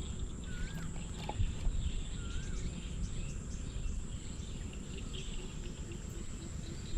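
Steady low outdoor rumble with two faint, short, wavering bird chirps in the first half.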